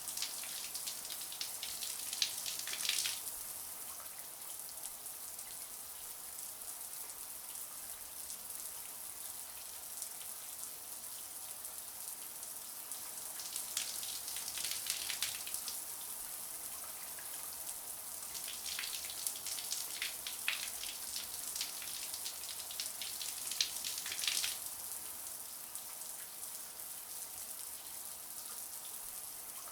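Shower water running steadily, a continuous high hiss of spray, with spells of heavier spattering that come and go a few times.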